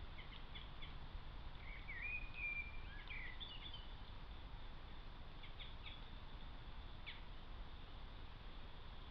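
Faint small-bird calls: a few short chirps and a brief warbled phrase about two seconds in, over a steady hiss from a trail camera's built-in microphone.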